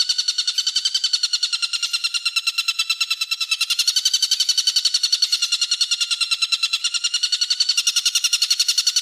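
A bird's harsh, rapid rattling call, about ten even pulses a second, held steadily without a break.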